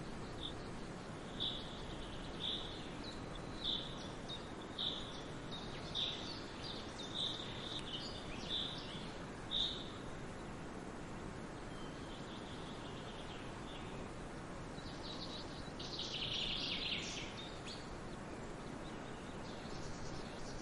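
Songbird calls in a forest: a short, clear note repeated about once a second for some ten seconds, then a busier burst of chirping near the end, over a steady background hiss.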